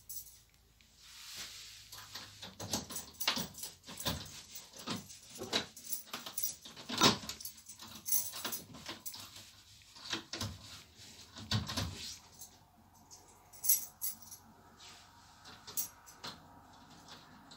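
A string of irregular clicks, clinks and rustles, denser in the first two-thirds and sparser near the end.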